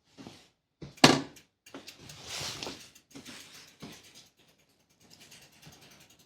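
A sharp knock about a second in, then scattered clicks, clatter and rustling of things being handled.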